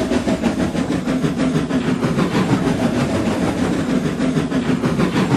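A train running: a steady, rapid chuffing and rattle that goes on without a break.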